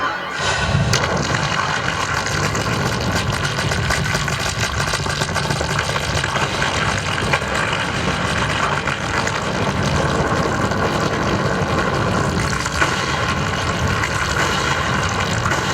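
Loud, dense rumbling roar from a projection-mapping show's soundtrack, cutting in abruptly after sustained music and holding steady and heavy in the low end.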